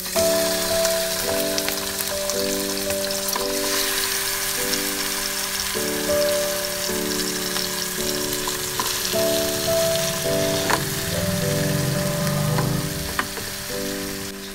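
Chicken pieces sizzling and frying in a nonstick frying pan, the sizzle starting sharply as the first piece goes in, with a couple of light knocks near the end as more pieces are laid in. Background music chords play underneath.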